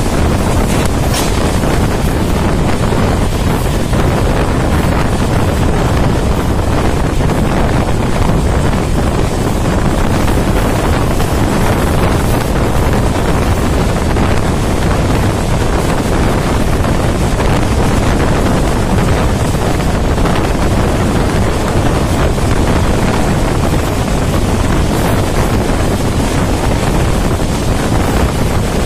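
Intercity passenger train running at speed: a loud, steady rush of running noise and air, with wind buffeting the microphone.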